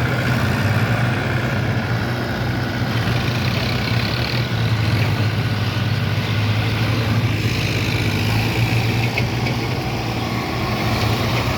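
Tractor diesel engine running steadily with an even, low hum.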